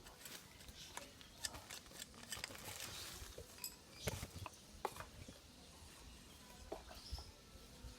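Irregular light clicks and clinks of small hard objects being handled, a few a second at most, the sharpest about four seconds in.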